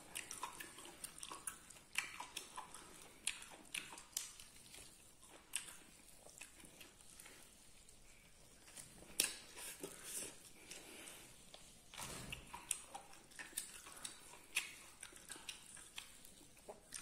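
A person chewing and eating with irregular small wet clicks and mouth smacks, close to the microphone.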